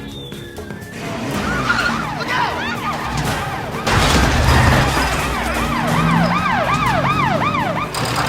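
Police car sirens wailing up and down in quick cycles, about two a second, over car engine noise and film score music; the whole mix gets louder about four seconds in.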